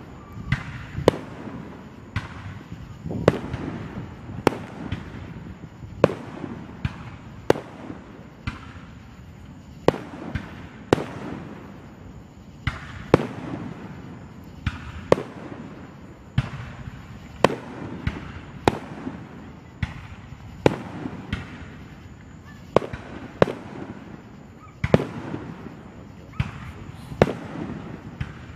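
Aerial firework shells bursting in steady succession, a sharp bang about once a second, each one trailed by a rolling echo.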